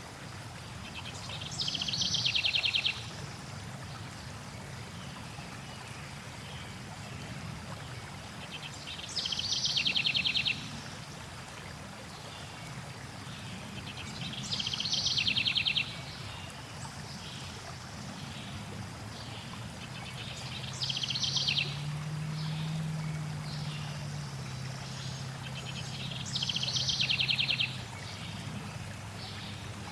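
A songbird repeating a short, fast trilled song five times, roughly every six seconds, over a steady rush of flowing water.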